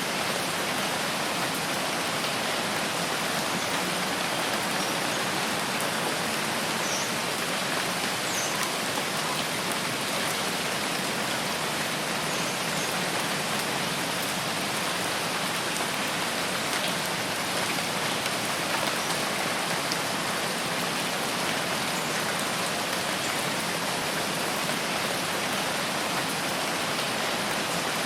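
Steady rain falling in a rain forest, an even unbroken hiss, with a few faint high chirps in the first third.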